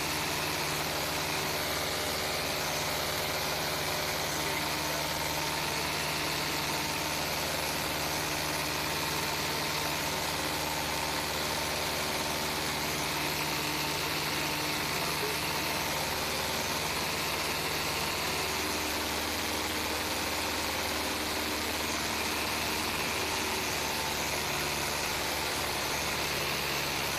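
Light aircraft's piston engine and propeller droning steadily in flight, with a slight shift in engine tone about two-thirds of the way through.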